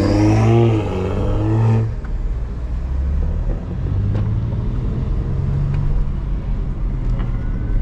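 Car engine and exhaust running with a low steady rumble. During the first two seconds a louder pitched sound wavers up and down over it, then stops.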